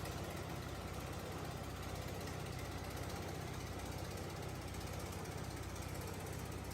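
Factory machinery running steadily with a low hum and a fast, even rattle.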